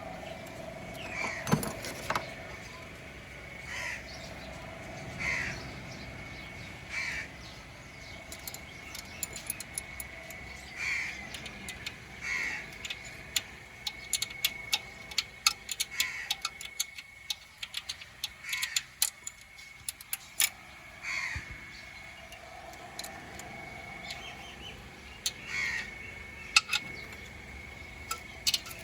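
Crow cawing repeatedly, a short call every one to two seconds, over a faint steady high tone. Scattered light sharp clicks join in from about nine seconds in.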